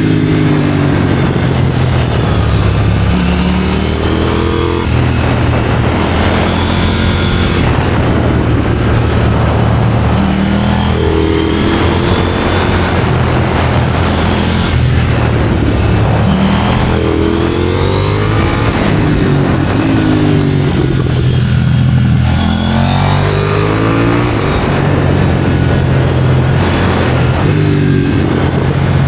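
KTM 790 Duke's parallel-twin engine through an IXRACE aftermarket exhaust, ridden hard: it revs up again and again in rising sweeps, the pitch dropping back at each gear change.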